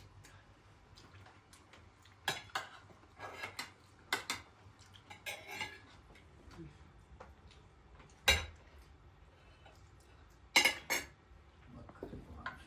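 Cutlery and dishes clinking and clattering now and then, as spoons knock against plates and bowls, with two louder knocks in the second half.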